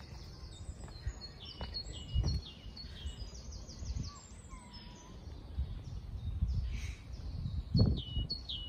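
Several songbirds singing, with quick high chirps and trills throughout, over a low rumble of wind and handling on the microphone and a few dull thumps, the loudest near the end.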